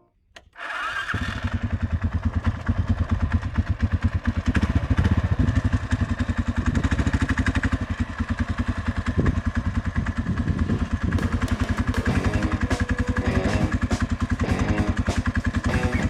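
Suzuki DR650's single-cylinder engine running with an even, rapid pulse. It comes in suddenly about a second in, after a brief quiet.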